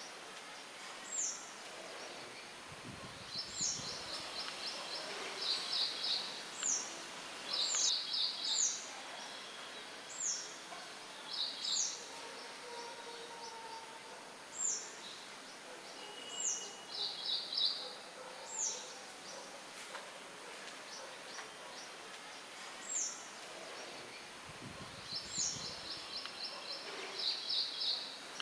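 Songbirds singing over a steady hiss of light wind, with short high downward-slurred notes and quick rattling trills repeating every few seconds. Brief low rumbles of wind come a few seconds in and again near the end.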